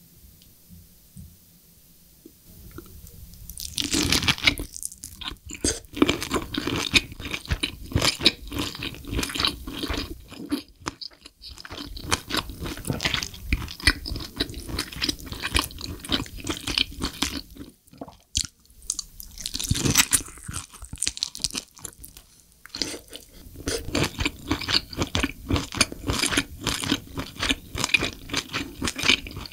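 Close-miked chewing of spicy braised lobster tail meat: dense, quick clicking mouth sounds that start about three and a half seconds in after a quiet opening, with short pauses twice along the way.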